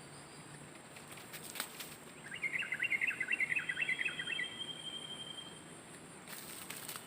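A bird sings a quick run of chirping notes for about two seconds, a little over two seconds in, over a steady high insect buzz. There are a few faint clicks and rustles before and after the song.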